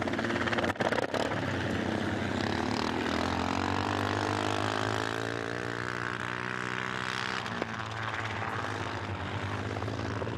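Helicopter in flight, its rotor and engine running steadily, the tone shifting in pitch a few seconds in. A couple of brief knocks come about a second in.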